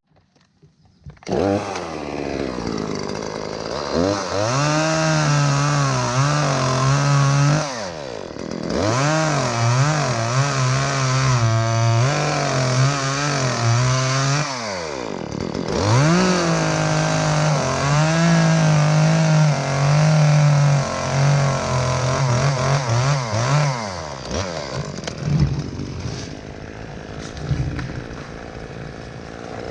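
Chainsaw cutting through the top of an ash tree at full throttle. Its revs fall off twice and climb back, and it stops a few seconds before the end.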